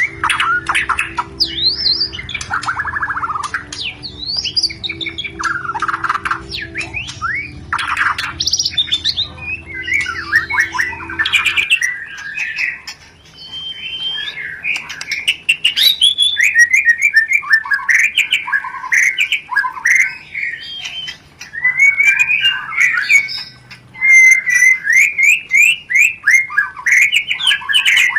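White-rumped shama (murai batu) giving fast, dense chattering calls mixed with short whistled notes: the 'rencetan' chatter of a bird in mating condition. A low steady hum runs under it and stops about halfway through.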